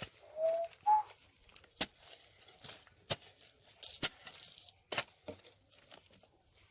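Two short pitched calls in quick succession, the second higher, followed by four sharp knocks roughly a second apart, over a faint steady high tone.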